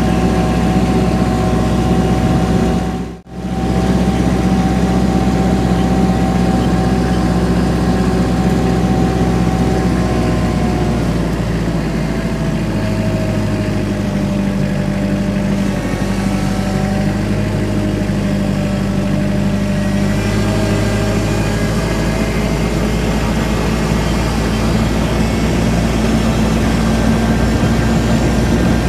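An engine running steadily, its pitch shifting slightly about ten seconds in, with a brief sudden drop-out about three seconds in.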